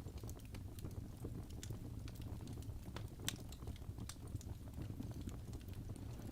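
Wood fire burning in a fireplace: a steady low rumble of flame with irregular crackles and pops from the burning logs, one sharper pop about three seconds in.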